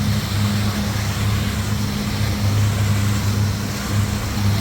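Boat motor running steadily, a low even hum over a constant hiss.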